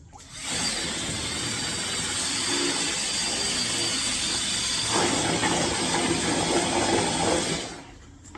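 A steady, loud hiss that starts just after the beginning, grows fuller about five seconds in, and stops about a second before the end.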